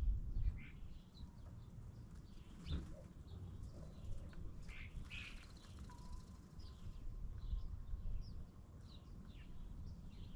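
Small birds chirping: many short, scattered high chirps, with a low wind-like rumble that fades in the first second.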